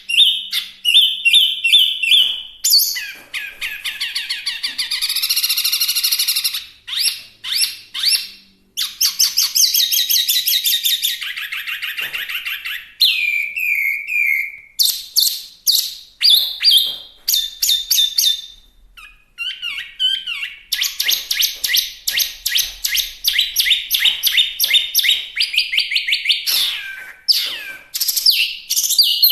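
Hwamei singing a long, varied song: clear whistled notes and pitch glides alternating with fast rapid-fire runs of repeated notes, with only brief pauses between phrases.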